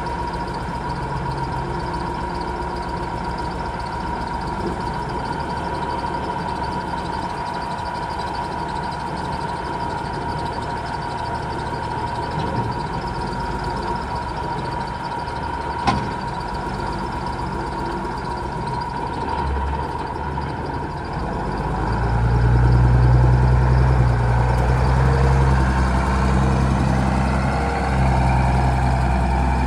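Case IH Magnum 7120 tractor's six-cylinder diesel engine running steadily with a constant high tone over it and one sharp click midway. About 22 seconds in, the engine comes up in speed and runs louder and deeper.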